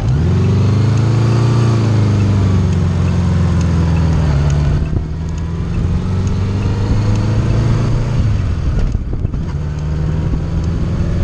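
1980 Honda Gold Wing's flat-four engine pulling under throttle on the move, the engine note rising over the first second or so and then easing into a steady run. The engine note briefly drops about five seconds in and again about nine seconds in.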